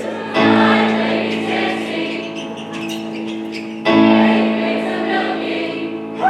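High school choir singing long held notes in two sustained phrases, the second beginning about four seconds in.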